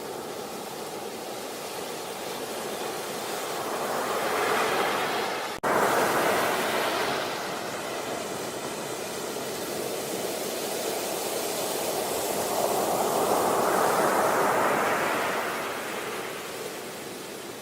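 Sea waves washing onto a beach: the surf swells and falls away twice, with a brief cut in the sound about five and a half seconds in, after which it comes back loud.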